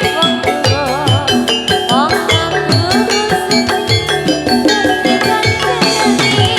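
Javanese gamelan music for jathilan: struck metallophones and drums playing a steady, even beat, with a wavering, gliding melody line above them.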